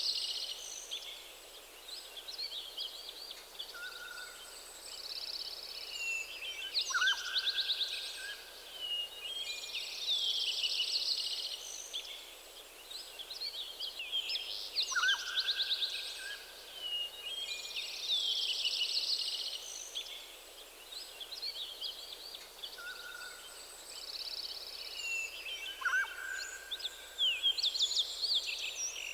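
Several songbirds singing in a forest. Quick, high chirping phrases recur every few seconds, loudest in clusters about every eight seconds, and a lower, drawn-out whistled note drops in now and then over a faint steady background hiss.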